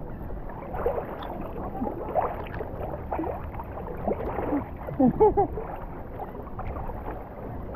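Open-air seaside ambience: a steady wash of water and wind noise, with scattered snatches of people's voices.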